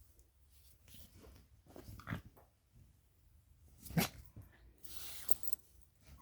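A dog giving two short barks, a softer one about two seconds in and a sharper, louder one about four seconds in.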